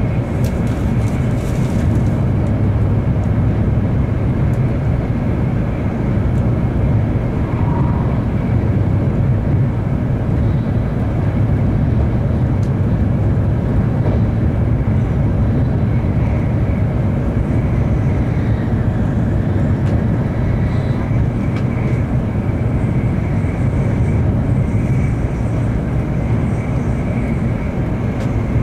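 Steady running noise inside the passenger cabin of a Series N700 Shinkansen at speed: a constant low rumble with a faint steady high tone above it.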